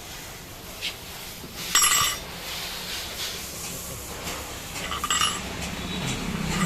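Metal tools and engine parts clinking as they are handled, in three short clatters; the loudest is about two seconds in.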